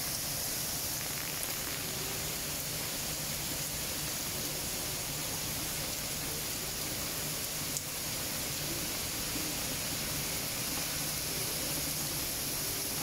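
Heavy downpour: a steady hiss of rain falling on the pavement and the leaves of the trees.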